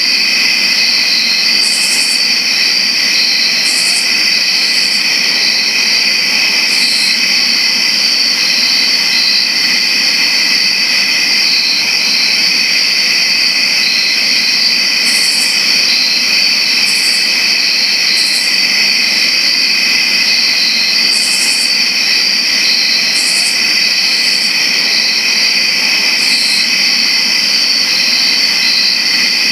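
A dense chorus of crickets chirping without a break: a steady, high-pitched ringing, with short, even higher chirps cutting in now and then.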